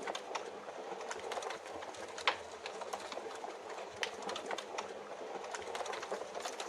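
Wood fire crackling, with scattered sharp pops, a few louder than the rest, over a steady hiss of rain.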